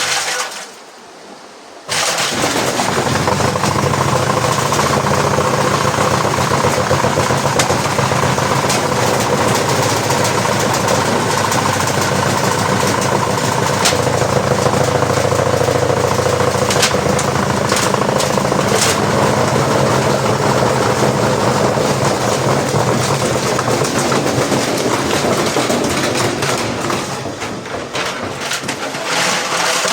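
LG washing machine spinning hard with a brick in the drum: a loud, steady motor whine under continuous rattling and banging. It starts about two seconds in and drops off near the end.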